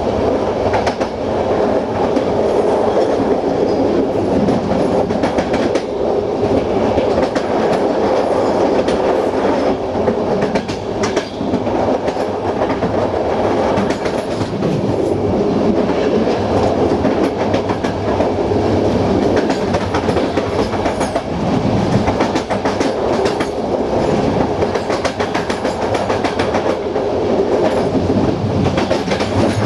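Railway carriage wheels running along the track at speed: a steady rolling rumble with scattered clicks over the rail joints.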